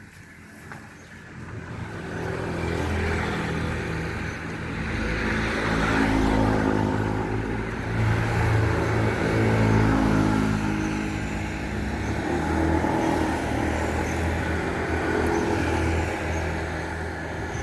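Mitsubishi Colt T120SS pickup's 1.5-litre petrol engine running and being revved, its pitch rising and falling several times after building up over the first couple of seconds.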